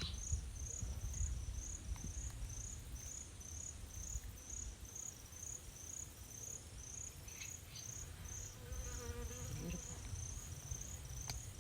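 An insect, cricket-like, chirping in a steady high-pitched rhythm of about three chirps a second, over a low rumble.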